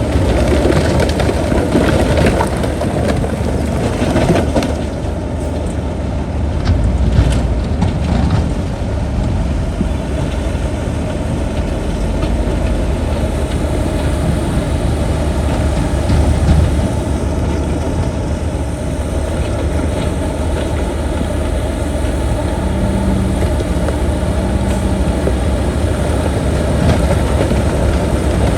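Bulldozer's diesel engine running steadily and heavily, with several clanks and knocks in the first few seconds.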